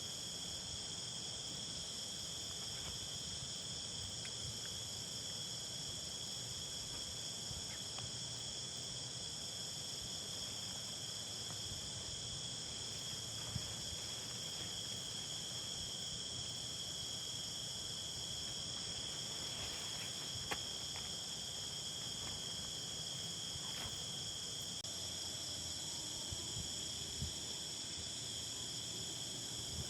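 Steady chorus of insects, several high-pitched trills held at an even pitch without pause, with a few faint clicks heard now and then.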